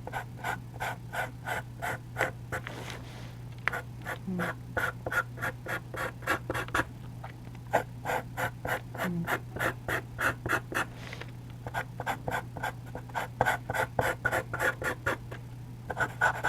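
A 4B charcoal pencil drawing on charcoal paper in short, quick strokes, about four or five scratches a second in runs with brief pauses between them. A steady low hum sits underneath.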